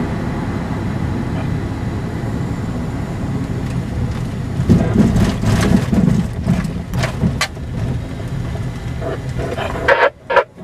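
Steady low rumble of a car on the road, with a run of knocks and rattles about halfway through and a few sharp clicks before the sound cuts out abruptly near the end.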